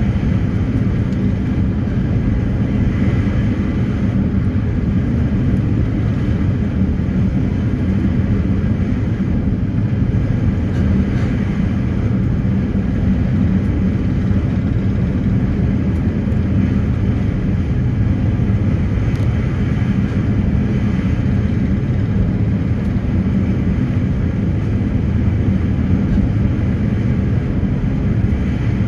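Ferry engines running with a steady low drone and a rush of noise, unchanging throughout.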